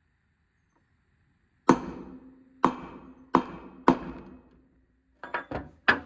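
Hammer blows on metal, working the flywheel of a Stihl BR600 two-stroke engine loose from its crankshaft: four hard, ringing strikes from about two seconds in, then a quick run of lighter taps near the end.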